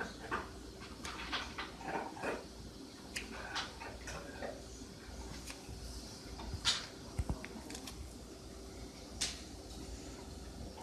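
Slime being squeezed and poked by hand: scattered sticky clicks, pops and squelches at an irregular pace over a faint steady hum.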